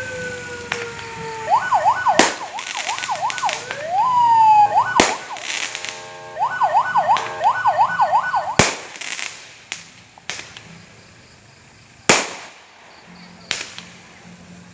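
Fireworks going off: whistling fireworks with falling whistles, then fast warbling up-and-down whistles like a siren, broken by several sharp bangs a few seconds apart.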